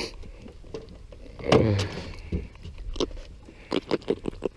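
A run of short sharp knocks and light rattles as a freshly landed fish is handled in a small boat. A brief low vocal sound comes about one and a half seconds in.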